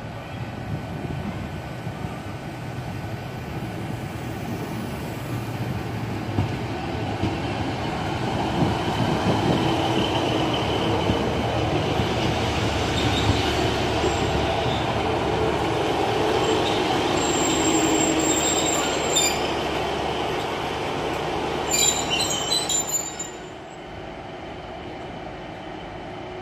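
Class 150 Sprinter diesel multiple unit running into the platform, its engine and wheels on the rails growing louder as it draws alongside, with high-pitched wheel squeal as it passes. The sound drops off abruptly near the end to a quieter steady hum.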